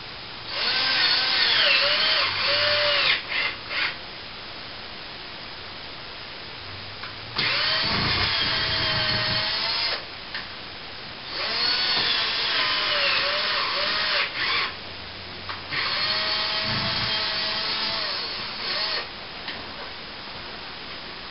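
Cordless drill driving screws into a plasterboard ceiling patch. The motor runs in four bursts of two to three seconds, its whine rising and falling as the trigger is worked, with short blips at the end of some runs.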